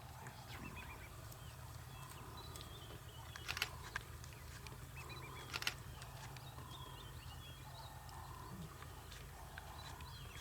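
Faint bush ambience: birds chirping in short repeated notes over a low steady hum, with two sharp cracks about two seconds apart near the middle.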